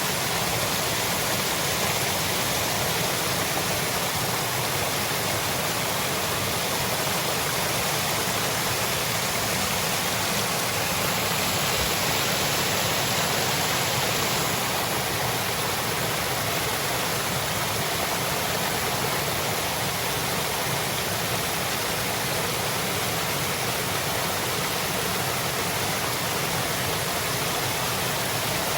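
Waterfall: water falling and rushing in a steady, even hiss, slightly brighter for a few seconds near the middle.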